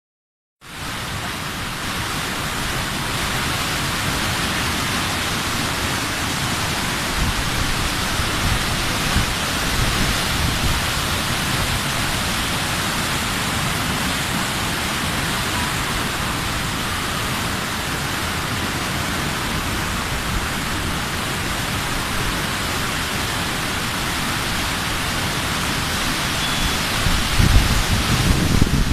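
Rushing river water, a steady loud hiss that starts about half a second in; a low rumble joins near the end.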